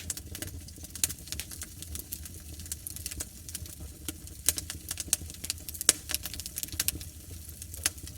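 Wood fire in a fire pit crackling, with frequent irregular sharp pops over a low steady rumble.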